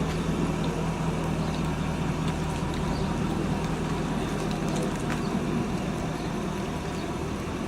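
A car engine idling steadily, with outdoor street noise around it.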